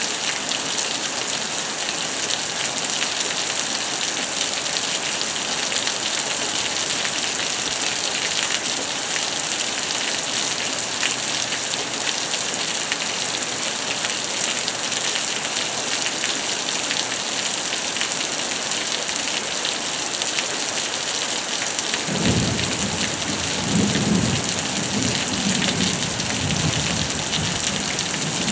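Heavy rain falling in a steady hiss during a thunderstorm. Late on, a low rumble of thunder sets in and rolls on to the end.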